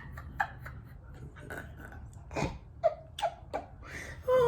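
Eating noises at a mukbang table: chewing and breathy mouth sounds with a few short vocal snippets, like brief laughs or grunts. A louder single bump comes a little past halfway.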